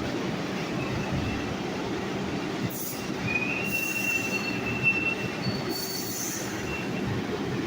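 New York City subway train running through the station with a steady rumble, its wheels squealing on the rails in one held high squeal from about three to five seconds in. Short bursts of hiss come and go.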